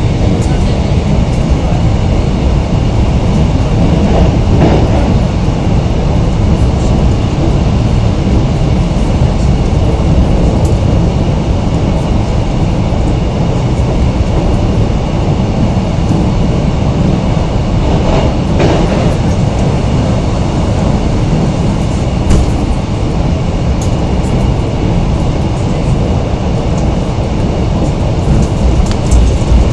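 Passenger train running at speed, heard from inside the carriage at the window: a loud, steady noise of wheels on rail, swelling briefly twice, about four and eighteen seconds in.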